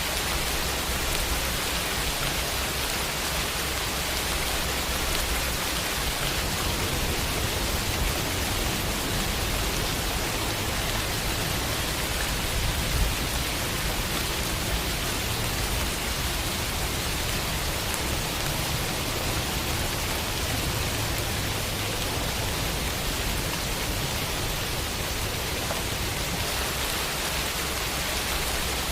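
Steady rain falling on a window, an even hiss with no let-up.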